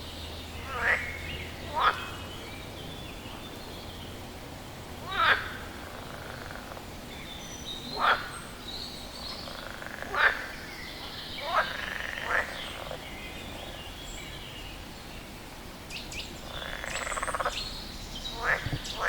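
A frog calling: short, sharp calls, each falling quickly in pitch, repeated every one to three seconds. Softer chirps sound in the background, and a buzzy trill comes near the end.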